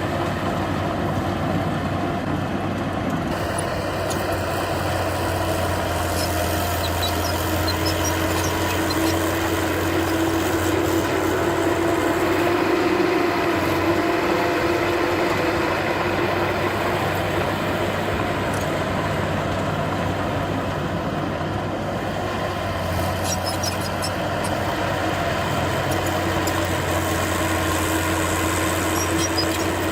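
Heavy diesel engine of earthmoving machinery running steadily, growing slightly louder about midway, with a few faint metallic clinks.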